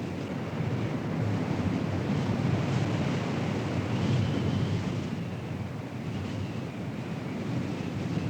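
Strong wind rushing and buffeting the microphone in heavy, surging gusts as a tornado storm closes in, with a faint high whistle wavering up and down.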